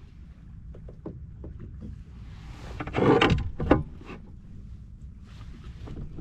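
Hollow knocks and bumps from gear being handled in a plastic fishing kayak, with a louder scraping rush about three seconds in and a sharp knock just after, over a steady low rumble.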